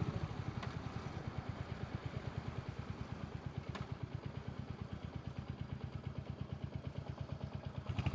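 Royal Enfield motorcycle engine idling with an even, steady beat of about eight pulses a second.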